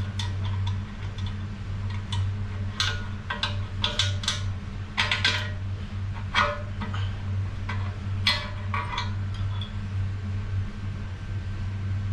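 Metal tools and transmission parts clinking and clanking as they are handled, a dozen or so sharp knocks clustered in the middle, over a steady low hum.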